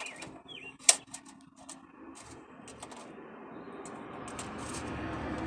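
Sharp plastic clicks and rattles from handling airsoft BBs and the toy rifle ahead of loading, the loudest about a second in. A steady rumble grows louder in the second half.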